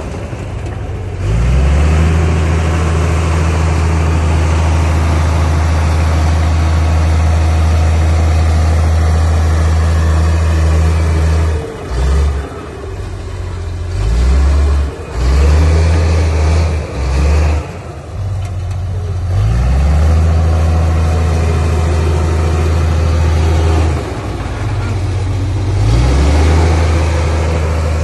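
Heavy diesel engine of earthmoving machinery running under load. Its low, steady drone drops and picks up again several times: a cluster of short dips in the middle, then another dip and recovery near the end, as the throttle and load change.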